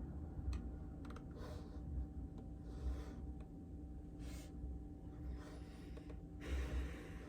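Soft, scratchy rustles at a desk, about half a second each and five in all, the longest near the end, with a couple of light clicks early on, over a steady low hum.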